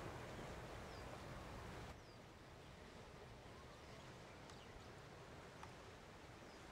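Faint outdoor background: a low hiss of wind and surf that drops off abruptly about two seconds in, with a few faint, short, high chirps from small birds.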